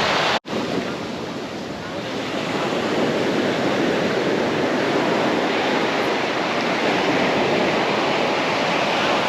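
Ocean surf washing on a beach, a steady rush of waves. It cuts out for an instant just under half a second in.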